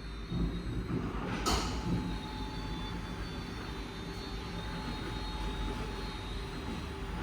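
WashTec SoftCare² Pro gantry car wash machinery running with a steady hum and low rumble, with a short sharp hiss about a second and a half in.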